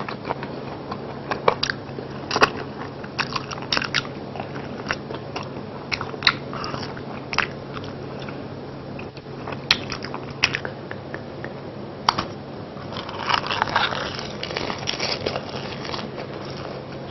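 Close-miked biting and chewing of crispy fried chicken: scattered crunches and wet mouth clicks, with a denser run of crunching near the end.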